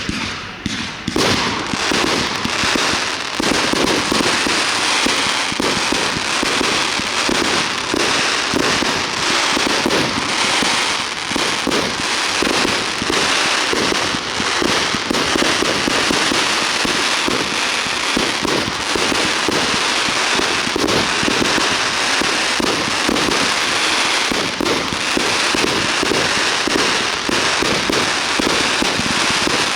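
Fireworks display going off in a dense, continuous barrage: many overlapping bursts and crackling with no pause, building up about a second in.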